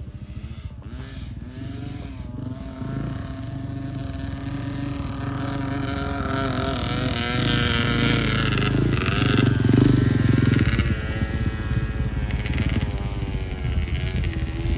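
Dirt bike engine running under way, its pitch shifting with the throttle; it grows louder up to about ten seconds in, then eases off a little.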